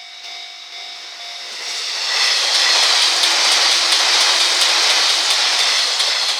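485-series electric train passing at speed. It grows loud about two seconds in, with a rushing hiss of wheels and several knocks over rail joints, then begins to fade near the end.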